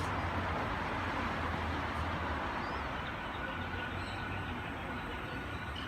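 Sydney Trains Waratah (A set) electric train pulling into the platform: a steady rumble with a low hum, easing off slightly as it slows.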